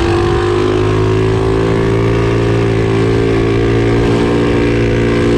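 Minibike's single-cylinder small engine running at a steady, held speed, a loud even drone.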